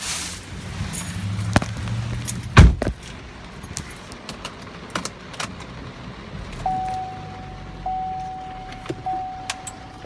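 Handling noise from a phone carried in the hand, with keys jangling, scattered clicks and knocks, and a loud thump about two and a half seconds in, like a car door shutting. From about two-thirds of the way through, a steady high electronic tone sounds, briefly broken twice.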